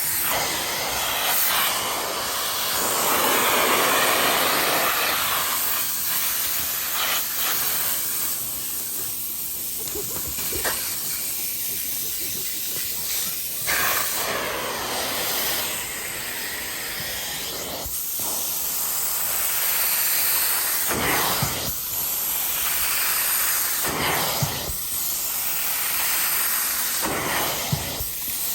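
Vortex Lite carpet extractor running: a steady vacuum-motor whine under a loud hiss of air and water being sucked through the cleaning tool. The hiss swells and eases every few seconds as the tool makes passes over the fabric.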